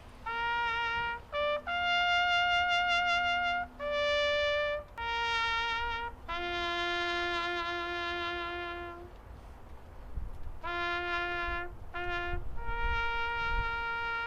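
Solo brass horn playing a slow melody of about nine separate held notes that step up and down, with a pause of about a second and a half in the middle. The last note is held long.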